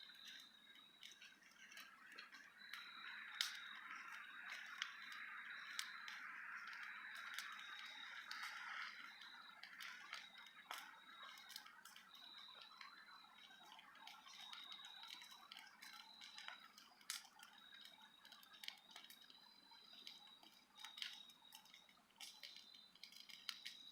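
Campfire burning: wood crackling with scattered sharp pops and a soft hiss that swells through the first half. A faint high whistle comes and goes in short dashes throughout.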